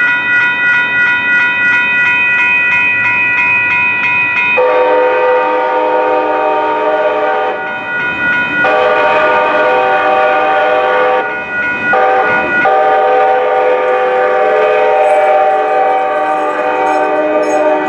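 Train horn with several notes sounding the grade-crossing signal: two long blasts, a short one, then a long one. In the first few seconds a crossing signal bell rings in a fast, even rhythm.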